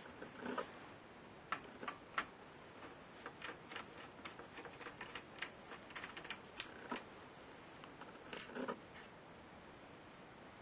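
Light, irregular clicks and taps of small laptop parts and tools being handled during disassembly, with a couple of brief scraping rustles.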